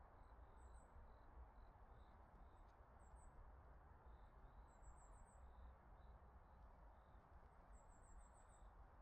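Very faint woodland ambience: a small bird gives four short runs of very high, rapid chirps over softer, evenly repeated insect chirping and a low rumble.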